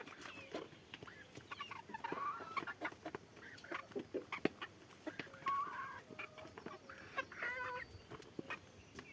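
Domestic chickens clucking, with several short calls about two, five and seven seconds in, among scattered sharp clicks and taps.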